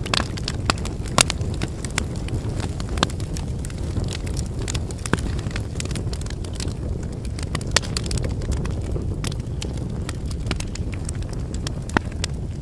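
Wood campfire crackling and popping: irregular sharp snaps of burning firewood, a few louder pops among many small ones, over a steady low rumble of the burning fire.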